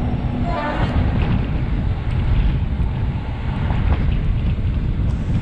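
Wind buffeting the microphone and the steady rumble of a passenger train running at speed, heard from an open coach window, with a few faint clicks from the track.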